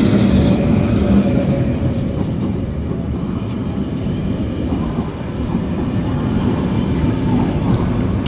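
Passenger train running along the platform close by: a steady, loud rumble of wheels on rails and traction equipment.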